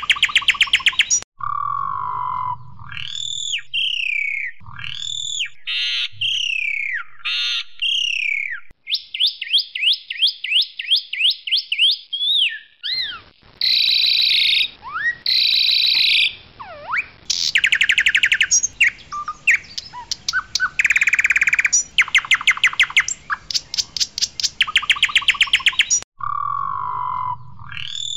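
Asian pied starling (jalak suren) singing a loud, varied song. It strings together fast rattling trills, slurred rising and falling whistles, and harsh buzzy notes, with short pauses between phrases.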